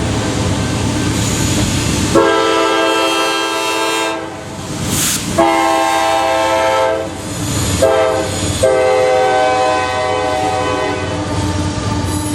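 Locomotive air horn blowing the grade-crossing signal, long, long, short, long, with the last blast held to near the end, over the rumble and rail clatter of the moving train.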